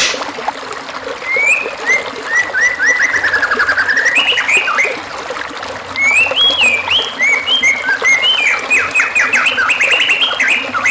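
A songbird singing two long, varied phrases of rising whistles and rapid down-slurred notes, with a short pause between them. A stream trickles faintly underneath.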